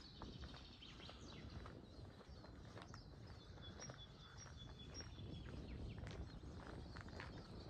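Faint small-bird song: short chirps and brief repeated whistled notes, over a low steady background rumble.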